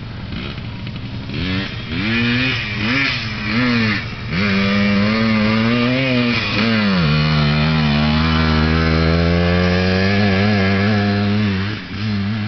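Small dirt bike engine revving in a few quick blips, then held at a steady speed. It drops to a lower steady note about seven seconds in and fades near the end.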